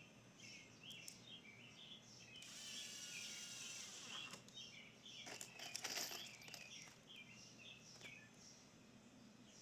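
Faint birdsong: short chirping notes repeating over and over, with a brief hiss and a few light clicks about halfway through.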